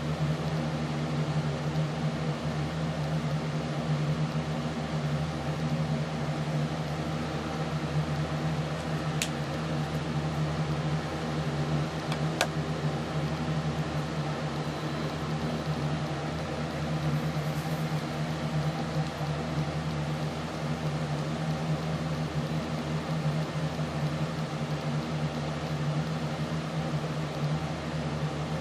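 A steady mechanical hum with hiss over it, with two short clicks about nine and twelve seconds in.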